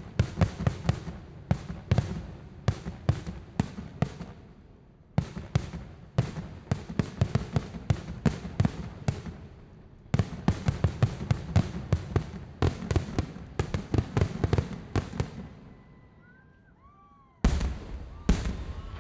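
Fireworks bursting in rapid barrages of many bangs, three dense volleys separated by short gaps, then after a brief lull one loud boom near the end followed by another.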